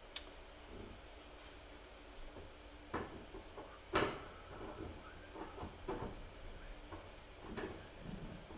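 Irregular light knocks, taps and scrapes of hands working the shower fittings on the shower arm, with one sharper knock about four seconds in.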